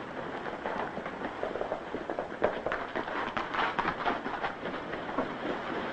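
Several horses galloping, a dense, uneven drumming of hooves.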